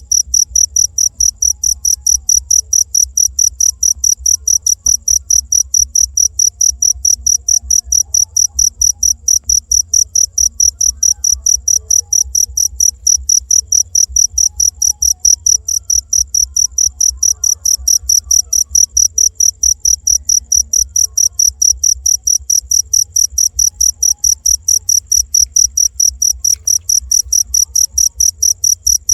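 Cricket chirping in a fast, perfectly even rhythm of high-pitched pulses, with a faint low hum underneath.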